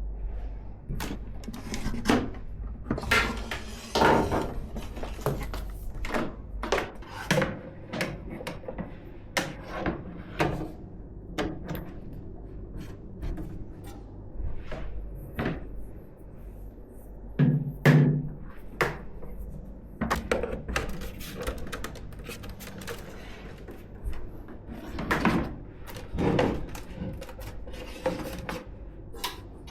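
Hands handling computer case parts and components: an irregular run of clicks, taps and plastic-and-metal knocks, with a louder knock about 18 seconds in.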